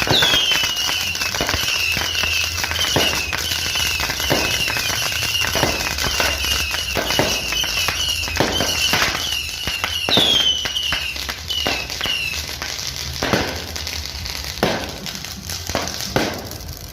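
Fireworks going off: a string of sharp pops and crackles, with a run of short, falling whistles repeating two or three times a second until about three quarters of the way through.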